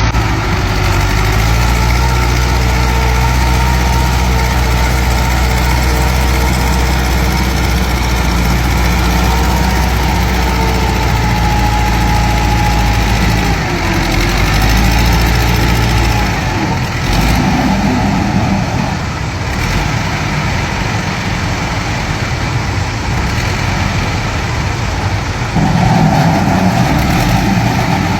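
Massey Ferguson 265 tractor's diesel engine running, with a steady deep note for the first half. About halfway through the note changes and turns rougher, and it gets louder near the end.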